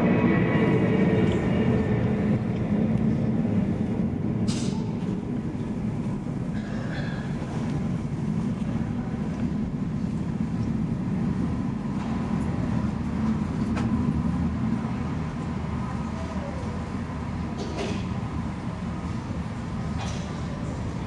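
A steady low mechanical rumble of a vehicle in motion, slowly fading over the stretch.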